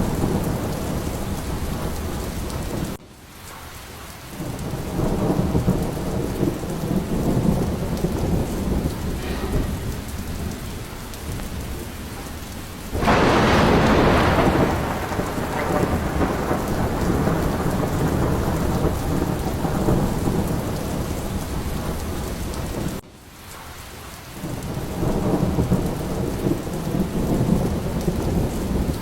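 Steady heavy rain with rolling thunder. A sharp thunderclap breaks about halfway through and rumbles away, and low rumbles swell twice more. The sound drops away abruptly twice, about twenty seconds apart, then builds back up.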